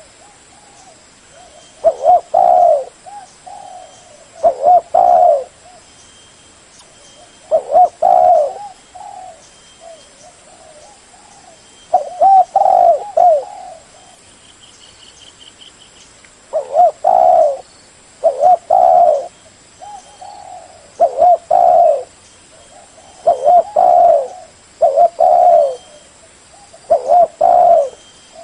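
Spotted dove cooing: a phrase of two or three low coos repeated every few seconds, loud and close.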